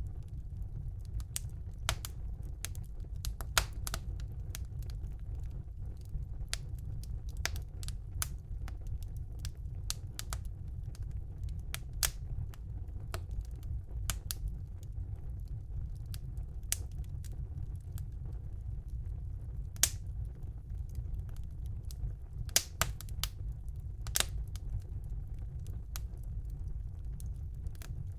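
Wood fire burning in a fireplace, crackling with frequent irregular sharp pops over a steady low rumble, a few pops standing out louder than the rest.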